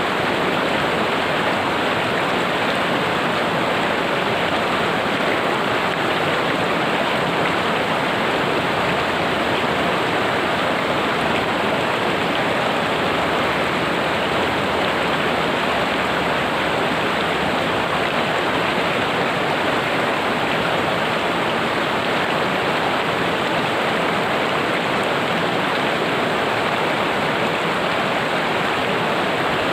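A river rushing steadily, the loud, even noise of fast-flowing water.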